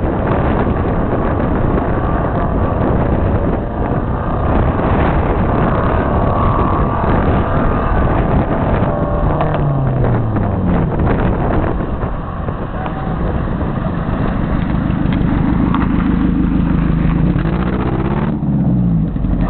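A motor vehicle's engine running with heavy wind on the microphone. Its pitch falls about nine seconds in, then rises again from about fourteen seconds before changing abruptly near the end.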